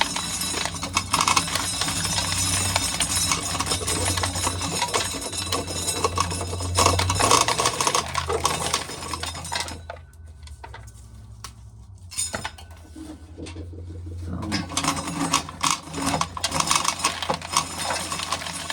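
Dried corn being shelled off the cob, kernels rattling and clicking as they fall into a pail. The rattling is steady, pauses for a few seconds just past the middle, then starts again.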